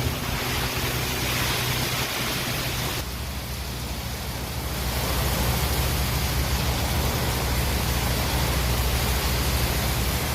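Steady, loud rushing noise of a violent storm, with a low rumble underneath.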